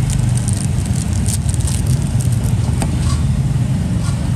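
Steady low engine-like rumble, with a scatter of light clicks and taps during the first few seconds.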